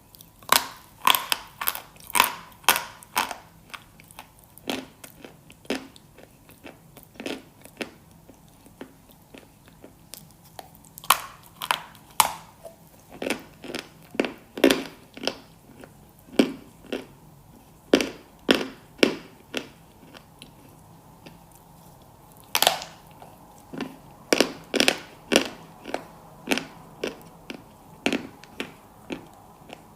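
Crunchy food bitten and chewed close to the microphone: sharp, loud crunches in irregular clusters, with brief lulls between them.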